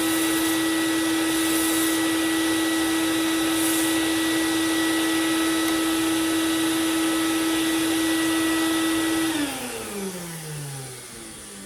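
Belt sander's electric motor running at a steady hum, then switched off about nine seconds in and spinning down with a falling pitch.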